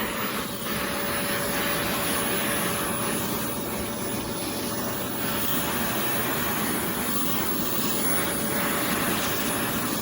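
Oreck Commercial XL Pro 5 compact bagged canister vacuum running steadily, a dense rushing motor-and-airflow noise with a steady mid-pitched hum and a faint high whine.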